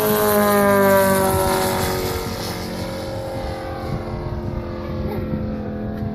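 Five-cylinder engine of a quarter-scale RC Pitts Special flying past: it is loudest about a second in and drops in pitch as it goes by, then settles to a steadier, quieter drone.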